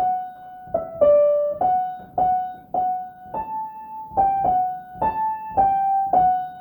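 Piano keyboard playing a simple single-note melody line of about a dozen struck, decaying notes, without singing. It is the song's phrase played through for the class to sing back.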